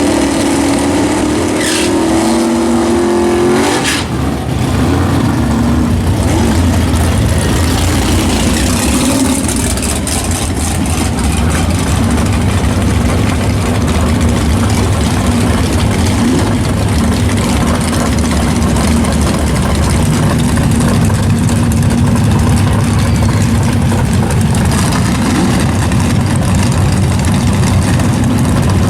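Loud car engine. A high, held engine note for the first few seconds cuts off about four seconds in, followed by a steady low rumble.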